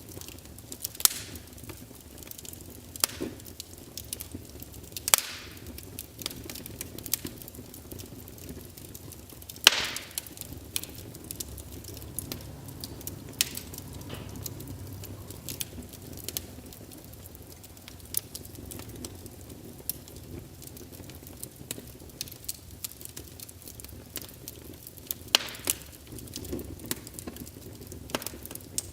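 Wood fire crackling in a fireplace: irregular sharp pops and snaps over a low, steady rumble, with a few much louder pops scattered through.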